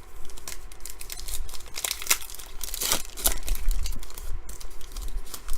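Rustling and crinkling of trading cards and their pack being handled, with a few sharper scrapes about two and three seconds in.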